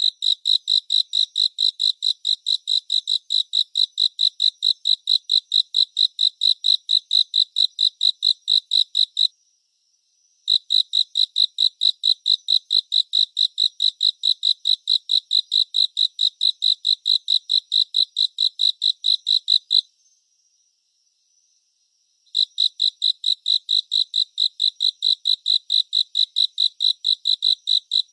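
A cricket chirping in a steady rhythm of about four high chirps a second. It falls silent twice, briefly about nine seconds in and for about two seconds near twenty seconds in.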